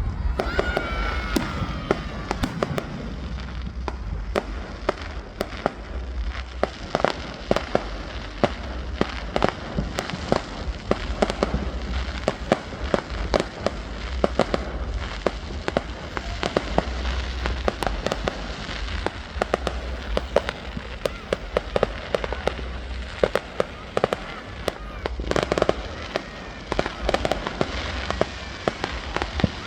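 Fireworks going off: a dense, irregular run of sharp bangs and crackles over a steady low rumble.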